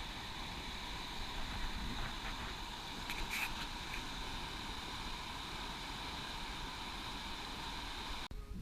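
Steady rushing of a fast-running river, which cuts off abruptly shortly before the end.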